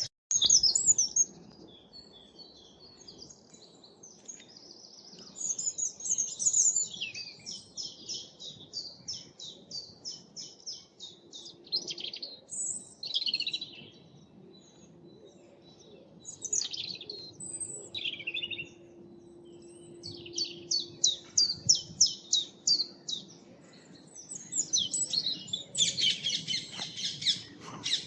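Several woodland songbirds singing at once in spring: overlapping high-pitched songs, some made of quick runs of evenly repeated notes, with the loudest burst of song near the end.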